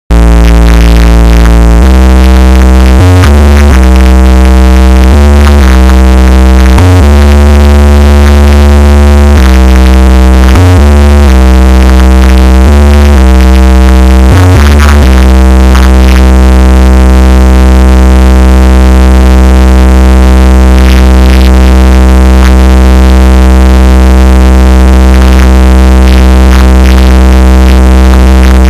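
Bass-heavy electronic music blasting at full volume from a car sound system in a Volkswagen Saveiro. Deep bass notes change every second or two, then one long bass note holds from about halfway through.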